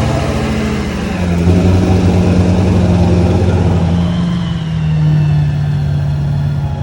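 Mud truck's big engine running hard, its revs rising about a second and a half in and shifting again near the middle.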